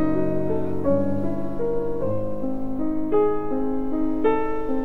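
Background piano music, slow notes changing about once a second.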